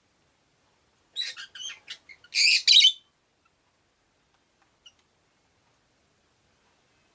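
Rosy-faced lovebird calling: a quick run of short, high chirps, then two loud, longer calls, all within about two seconds; a faint tick follows a couple of seconds later.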